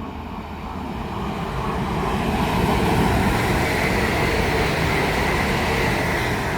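London Northwestern Railway Class 350 electric multiple unit passing through the station at speed: a rushing rumble that builds over the first few seconds and holds, with a thin high whine in the middle of the pass.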